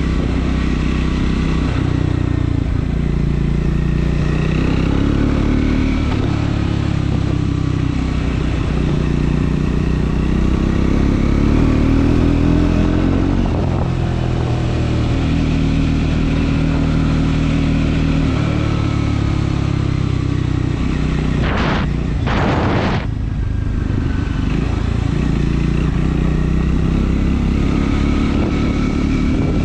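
Triumph Scrambler 400 X's single-cylinder engine running while riding, its pitch rising and falling with throttle and gear changes. Two short noises cut across it about three-quarters of the way through.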